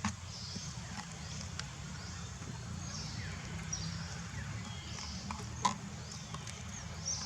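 Short, high-pitched animal chirps and squeaks repeating over a steady low hum, with one sharp click about two-thirds of the way through.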